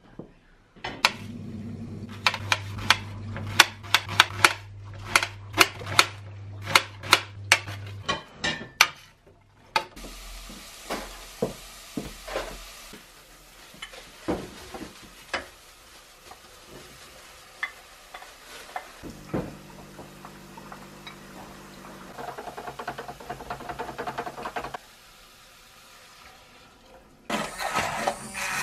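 Kitchen cooking sounds: sharp knocks of a utensil against cookware about twice a second for the first eight seconds, then stirring, light sizzling in a pan and the clatter of dishes.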